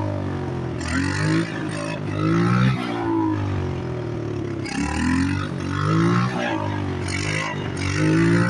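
Chinese pit bike's small single-cylinder engine revving up and easing off over and over, its pitch climbing and dropping about every two seconds as the bike is ridden.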